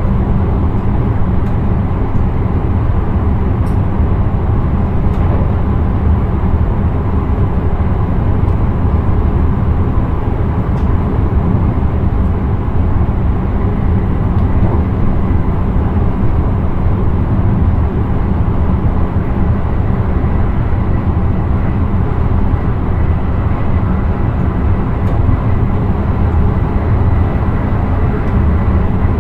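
Steady rumble of an electric intercity train running at speed, heard from inside the driver's cab, with a faint steady whine over it.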